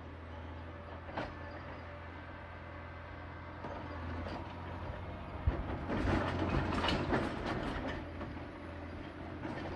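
John Deere 670 motor grader's diesel engine running steadily, with a sharp knock about a second in and a louder stretch of clattering and knocking from the machine about midway through.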